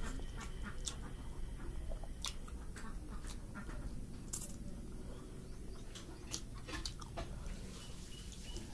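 Close-up eating sounds: chewing and small wet mouth clicks from someone eating rice and curry, with scattered short clicks over a steady low hum.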